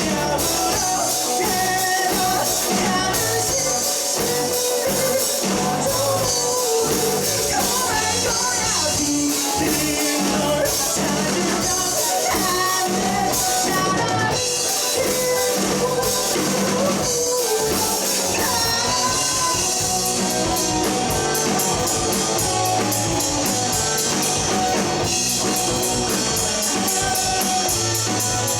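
Live rock band playing: electric guitars, bass and drum kit, with a sung vocal line over the top; quick steady cymbal strokes come in during the last third.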